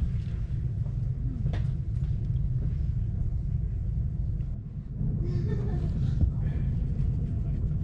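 Steady low rumble of a moving passenger train, heard from inside the carriage as it runs along the track, easing briefly about four and a half seconds in.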